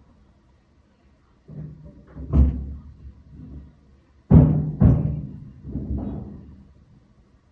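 Heavy construction banging heard through the building structure: about five irregular, booming thuds with a low resonant ring, the loudest two about four and five seconds in.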